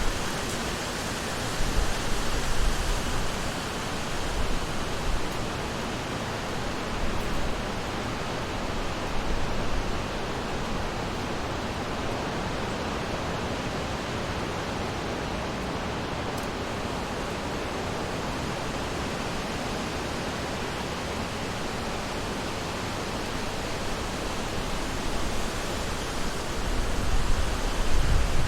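Summer wind blowing through forest trees, a steady rushing with low gusts swelling near the start and again near the end.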